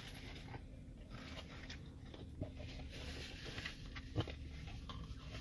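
Faint eating sounds: soft chewing and handling of food, with a couple of small clicks about two and a half and four seconds in, over a low steady hum.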